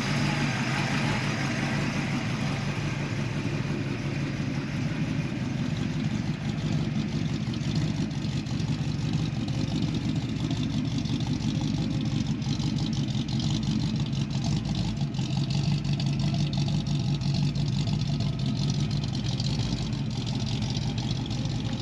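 A 347 stroker small-block Ford V8 in a 1966 Mustang GT350 replica idling steadily as it warms up after a cold start, exhausting through shorty headers.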